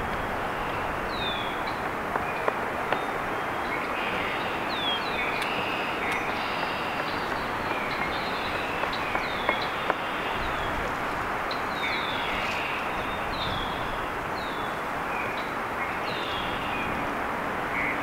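Small birds giving short, high, down-slurred chirps, repeated every second or so, over a steady rushing background noise.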